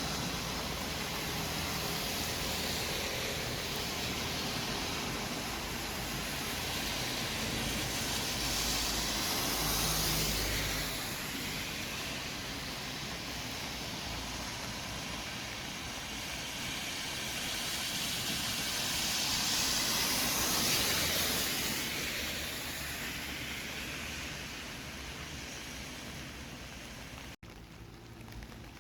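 Steady city traffic noise: a continuous hiss of tyres and engines, with passing vehicles swelling louder about a third and two thirds of the way through. Near the end the sound cuts out for an instant and comes back quieter.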